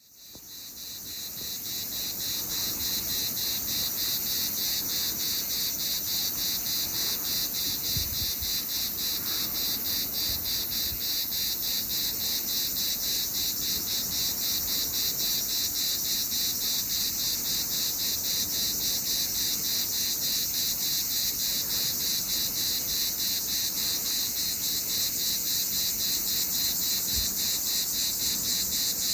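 Cicada singing: a continuous high, shrill buzz pulsing evenly about three to four times a second, fading in over the first couple of seconds.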